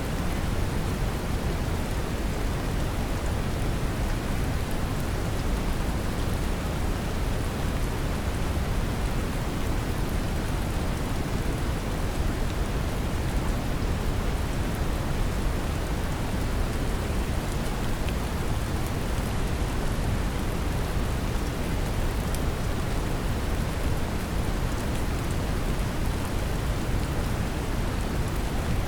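Steady brown noise mixed with a recording of gentle rain: an even, deep rushing hiss heaviest in the low end, with faint scattered raindrop ticks.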